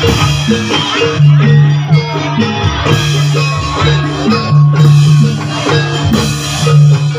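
Loud live jaranan campursari music: drum strokes and a few cymbal-like crashes over a repeating pattern of short struck melodic notes and a steady low bass tone.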